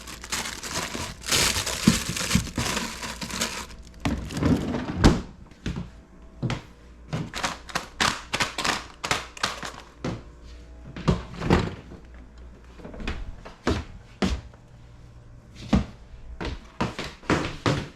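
Things being handled while a refrigerator is cleaned out: plastic rustling and crinkling for the first few seconds, then a long run of knocks and clunks as containers and parts are set down and moved.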